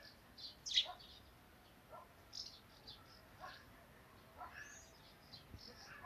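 Birds chirping: a steady run of short, high chirps with some lower notes between them, and one louder call about a second in.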